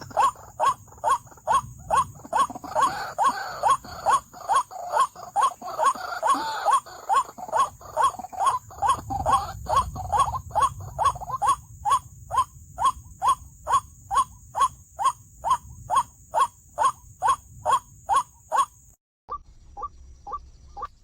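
White-breasted waterhen lure call: a 'wak-wak' note repeated steadily about two to three times a second, with a second, rougher call overlapping it for several seconds in the first half. A faint steady high whine runs under it, and it cuts off just after three-quarters of the way through, then goes on more quietly.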